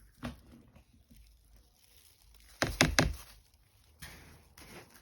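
A few hard knocks: one just after the start, a quick run of three louder ones a little under three seconds in, then two faint taps near the end.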